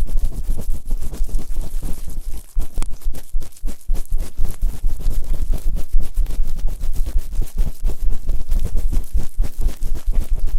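Fast, rough ear-cleaning scraping and rubbing on both ears of an ASMR microphone: rapid gritty strokes, many a second, over a heavy low rumble.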